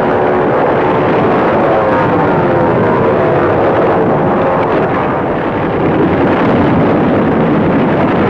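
Propeller aircraft engines droning, the pitch slowly sliding up and down as the planes pass.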